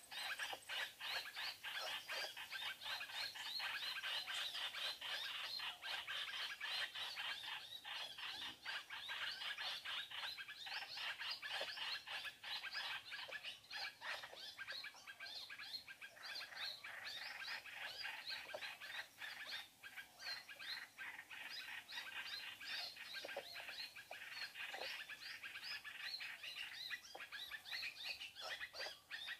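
Small birds chirping and calling without a break, many short quick notes overlapping.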